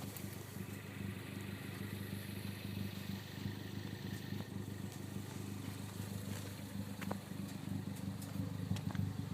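2013 Ford Focus ST's turbocharged 2.0-litre four-cylinder idling steadily through a straight-through exhaust with the stock muffler removed.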